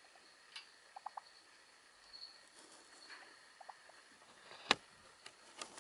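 Java sparrows giving a few short, soft chirps among scattered light clicks and scuffles. The loudest sound is a single sharp click a little before the end.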